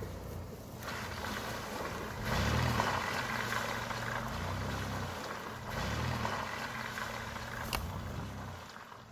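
A motor vehicle's engine running as it moves off, swelling and easing a few times over wind and road noise, with one sharp click near the end.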